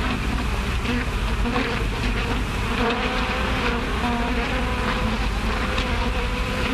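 A swarm of bees buzzing in a steady, dense drone.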